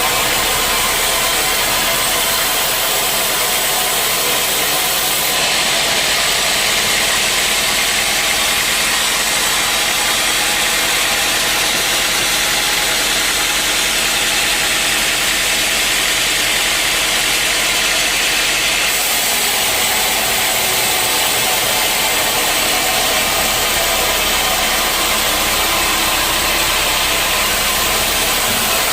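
Sawmill machinery running steadily while sawing teak. The sound turns brighter and hissier, with less low rumble, from about five seconds in until about nineteen seconds.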